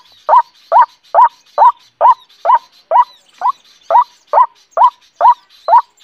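A bird's call: a short, rising note repeated very evenly, about twice a second.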